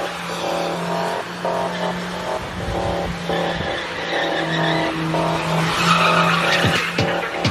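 Burnout car's engine held at high revs while its rear tyres spin and skid.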